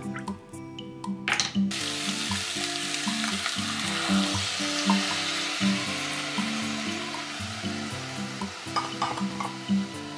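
Food frying in a hot pan: a sizzle starts suddenly about a second and a half in and then runs on steadily, with background music underneath.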